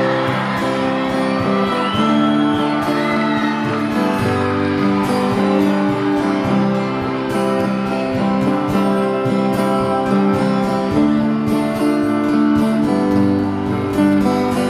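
Instrumental introduction of a karaoke backing track: acoustic guitar strumming steady chords with accompanying instruments.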